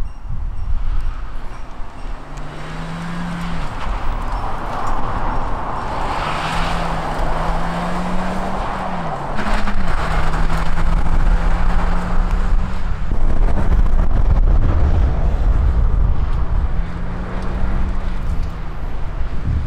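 Suzuki Swift Sport's four-cylinder engine driven hard, its note rising and dropping several times with gear changes and lifts off the throttle, over tyre and road noise.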